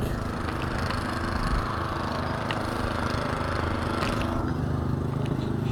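Car engine idling steadily, a low hum with an even pitch.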